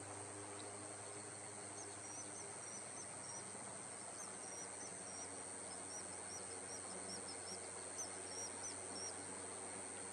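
Series of short, high-pitched bird chirps, starting about two seconds in and stopping near the end, over a steady high insect trill.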